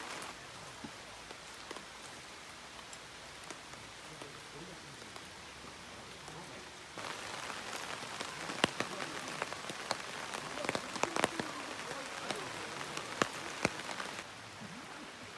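Steady rain falling, with a denser patter and sharp, separate drops hitting a surface from about seven seconds in.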